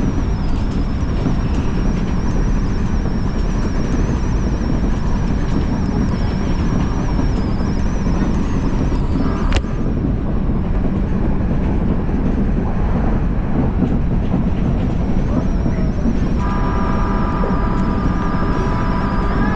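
Odakyu Line electric commuter train running on the track, a loud steady rumble with a thin high whine over it. A sharp click sounds about halfway, and a set of steady high tones comes in about three seconds before the end.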